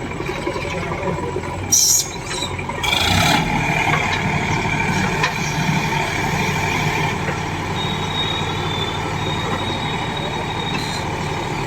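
Heavy diesel engine running steadily, getting louder about three seconds in, with two short hissing bursts just before.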